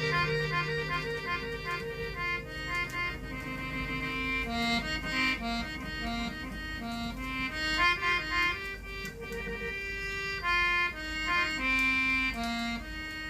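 Instrumental introduction of a Thai song played from an old gramophone record: a band plays a melody of short, quick notes over held chords, with no singing yet.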